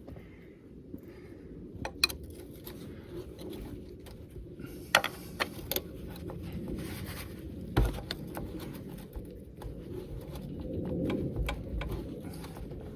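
Scattered metallic clicks and knocks from a pry bar working the Caterpillar D2's engine forward off its mounts, with a heavier knock about eight seconds in, over a low steady rumble.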